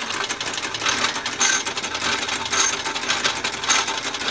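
Wilesco D416 model steam traction engine running on compressed air instead of steam, its gears rattling as it drives the back wheels, with a brighter clank about once a second.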